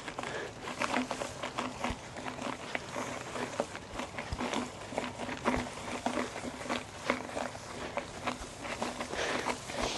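Trek Roscoe 8 mountain bike rolling over bumpy, rough ground, with a constant run of irregular rattles and knocks from the bike and its tyres. The tubeless tyres at about 30 PSI are too hard for this terrain, so the bike bounces over it.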